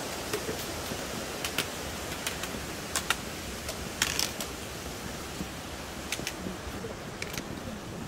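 Trekking pole tips clicking sharply on rock at irregular intervals, the loudest strikes about three and four seconds in, over a steady background hiss.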